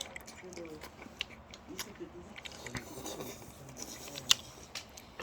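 People eating at a table: chewing with scattered sharp clicks, the loudest about four seconds in, under faint low voices.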